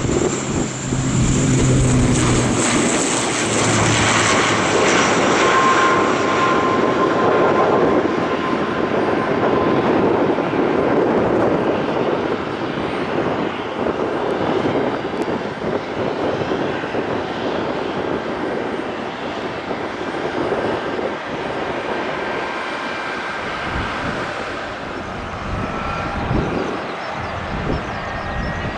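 Airliner engines running loud: a high whine that fades over the first few seconds over a rushing roar, the whole sound slowly dying away.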